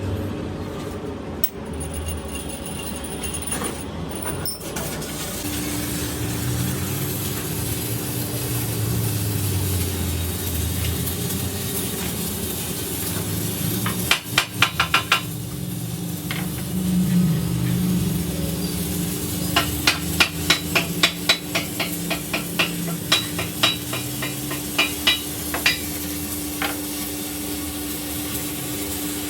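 A run of sharp knocks, a short quick burst about halfway through and then a longer series at about three to four a second, over a steady workshop-like hum with a constant tone.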